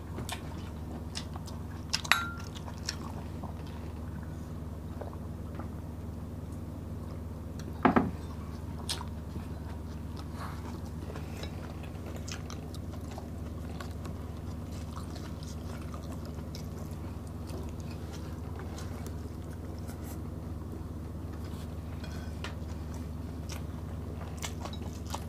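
Close-miked chewing, biting and mouth sounds of people eating rice, smoked fish and boiled vegetables by hand, with scattered soft clicks and smacks over a steady low hum. There is a sharp clink with a short ring about two seconds in, and a louder smack about eight seconds in.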